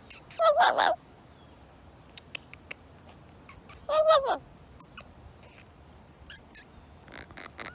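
A pet parrot giving two loud calls, one under a second in and one about four seconds in, with scattered sharp clicks in between.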